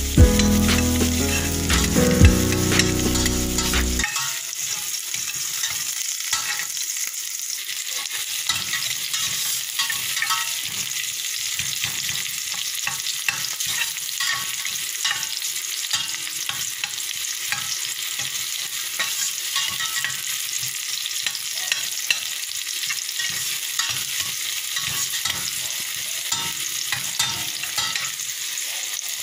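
Chopped garlic and onion sizzling in hot cooking oil in a stainless steel pot, with a spoon scraping and tapping against the pot as they are stirred. Background music plays at first and cuts off about four seconds in.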